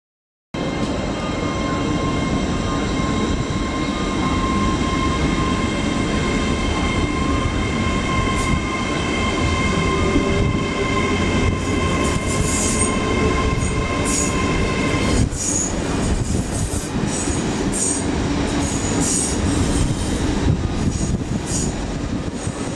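Great Western Railway Class 800 train running past the platform, with a steady whine of several tones that cuts off suddenly about fifteen seconds in. Short, high squeals of wheels on the rails come again and again through the second half.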